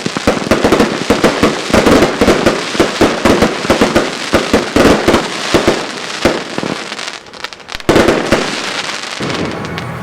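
Compound firework cake firing a rapid volley of bangs, several a second, with crackling. There is a short lull about seven seconds in, then a last loud volley about a second later that trails off.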